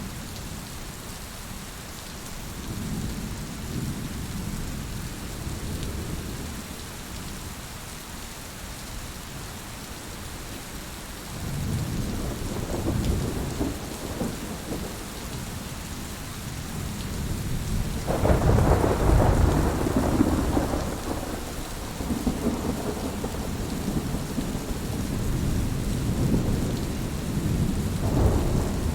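Heavy rain falling steadily, with thunder rolling in long low rumbles several times. The loudest peal comes about two thirds of the way through.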